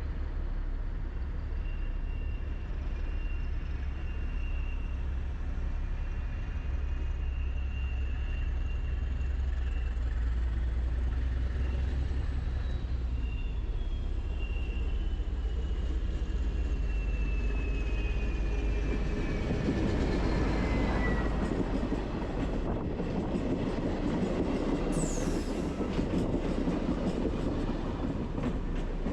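A train moving on the tracks: a steady low rumble with high thin tones, one sliding down in pitch over several seconds. From about twenty seconds in the rolling noise grows louder, with a brief high falling squeal a few seconds later.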